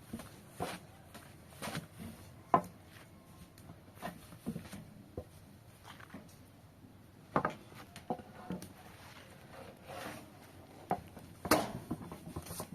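Irregular knocks and clicks of hard objects being handled, a few sharper than the rest, with soft rubbing between them.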